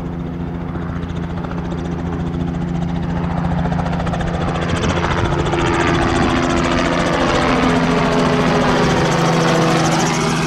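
Departing helicopter, its rotors and engine running loud and growing louder over the first seven or eight seconds, with a sweeping shift in tone through the second half as it passes close.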